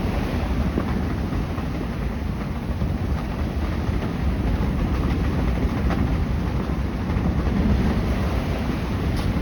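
Wind buffeting the microphone over the steady rush of water along the hull of a sailboat under way, a low, even rumble with a few faint knocks.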